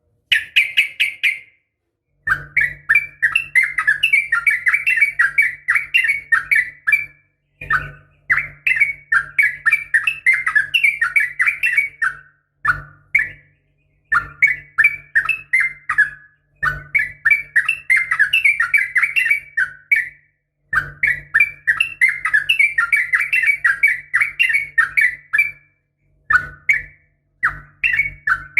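Yellow-vented bulbul (trucukan) calling in fast rapid-fire 'ropel' phrases of repeated chattering notes, about five a second. Each phrase lasts a few seconds, with short pauses between them. This is the excited fighting call used as a lure to make other trucukan answer. A low hum sounds under each phrase.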